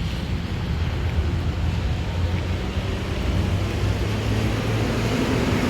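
Steady low rumbling noise, strongest in the bass, with no distinct events.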